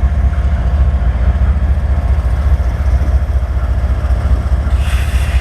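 Train passing, a steady low rumble, with a short burst of hiss near the end.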